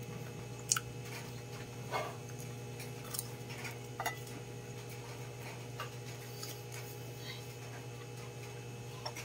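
Close-up eating sounds: chewing and wet mouth clicks as fried dried fish is eaten by hand, a few scattered clicks over a steady low hum.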